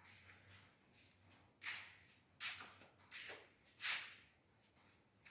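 Four faint scuffing footsteps, about 0.7 s apart.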